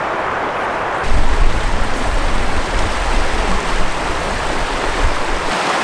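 River water rushing steadily. From about a second in until shortly before the end, a deep, uneven rumble is added on top of it.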